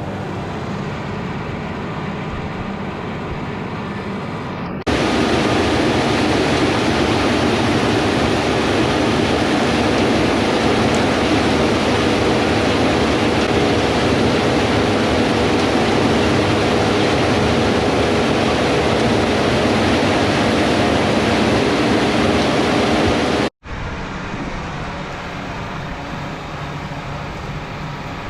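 Combine harvester running steadily while harvesting wheat, a continuous machine drone with no distinct events. It gets abruptly louder about five seconds in, then cuts out for an instant and drops back near the end.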